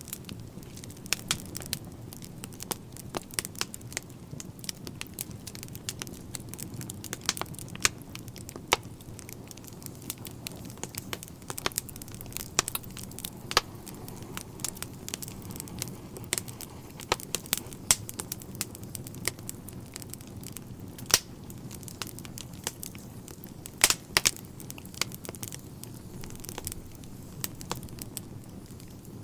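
Wood fire in a fireplace crackling, with frequent sharp pops over a steady low rush of flames.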